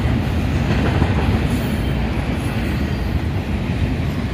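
Norfolk Southern freight train's cars rolling past on the rails, a steady low rumble of wheels on track.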